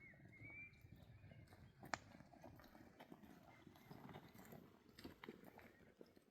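Faint, irregular knocks and clicks, with one sharper click about two seconds in and a brief high warbling tone at the start.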